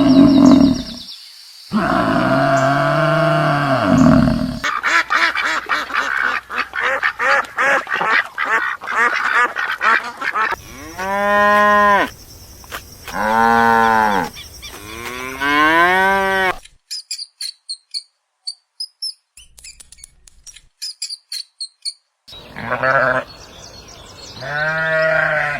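A run of farm animal calls, one clip after another: long calls that rise and fall in pitch, a stretch of rapid pulsing calls, then a few seconds of faint high chirps before more long calls.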